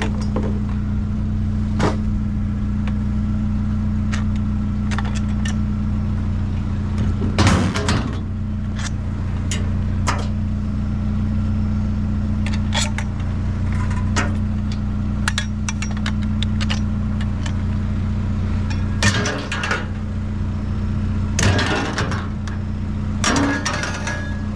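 Steady low hum of an idling vehicle engine, with scattered knocks and clanks as trash and scrap are handled, several louder clatters in the second half.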